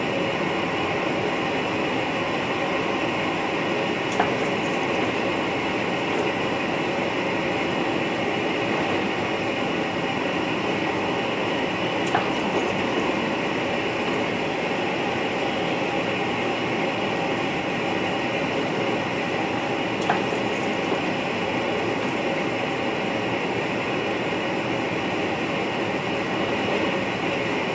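NS VIRM double-deck electric multiple unit running along the line, heard inside the driver's cab: a steady running and rail noise, with a sharp click three times at roughly eight-second intervals.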